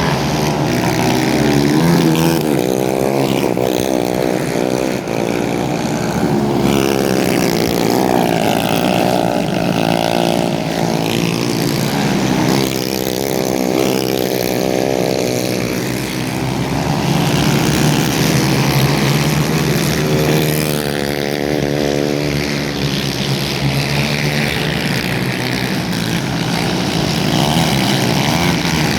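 Racing kart engines running hard, the engine note rising and falling over and over as the karts accelerate and slow through the corners.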